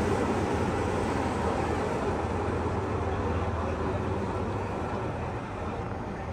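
Hong Kong Peak Tram funicular car running with a steady rumble and low hum that slowly fades.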